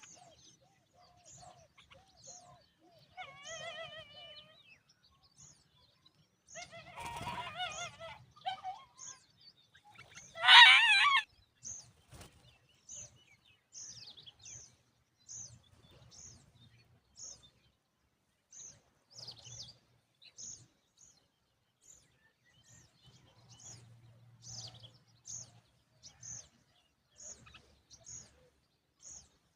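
Himalayan bulbuls calling: a short high chirp repeats about once a second throughout, with fuller calls a few seconds in and a loud warbling call lasting about a second, about ten seconds in.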